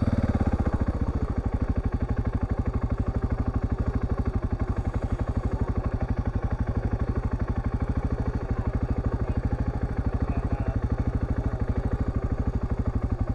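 Husqvarna TR650's single-cylinder engine running at steady low revs with an even, regular beat.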